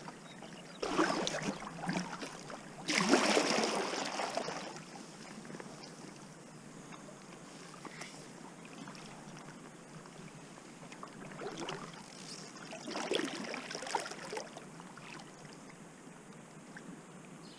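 Kayak paddle strokes splashing and swishing through the water: a run of strokes in the first few seconds, then quiet drifting with a soft hiss, then a couple more strokes past the middle.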